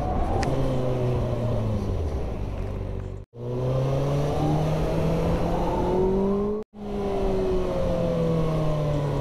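Kawasaki ZX-6R 636's inline-four engine running under way over a steady rush of wind, its pitch easing down, then holding and climbing a little before easing down again. The sound drops out abruptly twice, about a third and two thirds of the way through.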